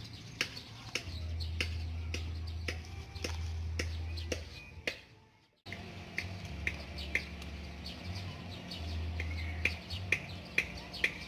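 Birds chirping in short, sharp notes repeating about two or three times a second, over a low hum that comes and goes. The sound drops out completely for about half a second about five seconds in.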